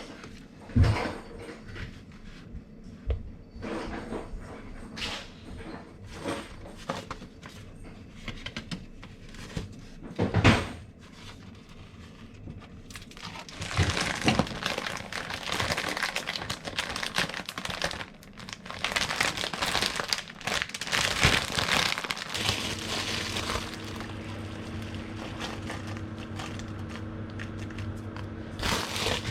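Handling noises: scattered knocks and clicks, then a stretch of packaging crinkling and rustling. About two-thirds of the way in, a steady low hum comes on and keeps running.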